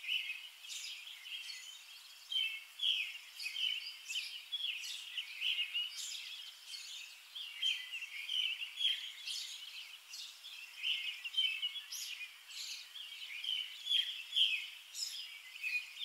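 Birds chirping: a dense, continuous run of short, high calls, many overlapping.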